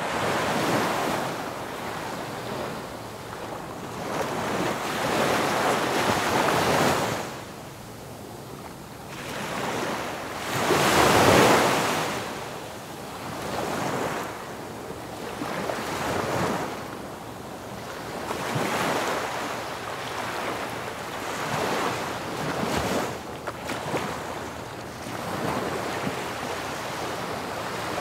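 Sea waves breaking on a beach, the surf swelling and fading every few seconds and loudest about eleven seconds in, with wind buffeting the microphone.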